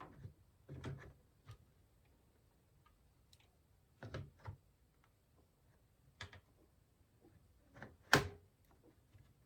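Hands handling PC hardware while a graphics card is being fitted: scattered light clicks and knocks of plastic and metal parts, with one sharp click, the loudest, near the end.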